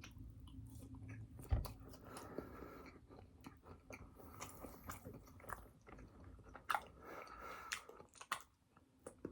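A person chewing and biting fast food close to the microphone: wet mouth noises and many small clicks. One loud, dull thump about a second and a half in.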